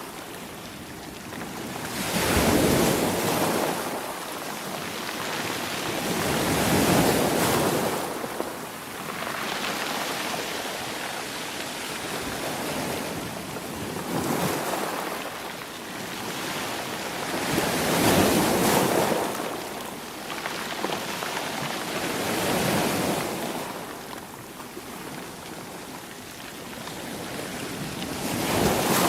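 Sea waves breaking and washing up the shore, each wave swelling and receding about every four to five seconds, about six in all.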